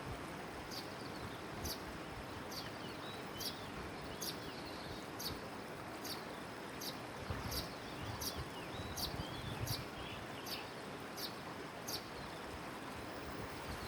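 A bird repeating a short, sharp, high chirp a little more than once a second, with softer falling twitters between the calls, over a steady rushing background noise.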